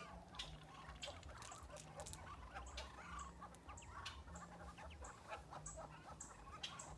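Young ducks peeping and clucking in a busy, faint jumble of short calls, with scattered sharp clicks, over a low hum that comes and goes.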